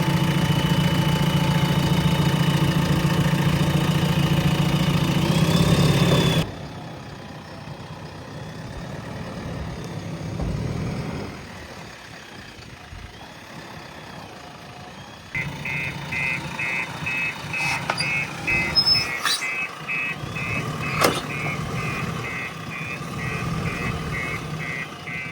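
JCB 3DX Plus backhoe loader's diesel engine running steadily; it drops abruptly to a quieter hum about six seconds in. From about fifteen seconds in, the machine's reversing alarm beeps in a steady repeating pattern over the engine, with a couple of sharp knocks.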